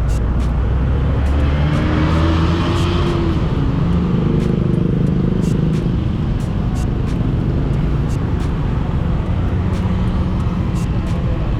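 Motorcycle engine running on the move, its pitch rising and falling with the throttle, over a heavy low rumble, with frequent short sharp clicks throughout.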